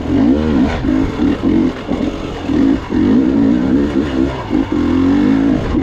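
Gas Gas EX 300 two-stroke dirt bike engine on and off the throttle in short bursts, its revs rising and falling every half second or so.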